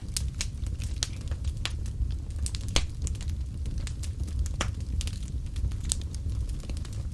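Fire in a fireplace crackling, with irregular sharp pops over a steady low rumble; one louder pop nearly three seconds in.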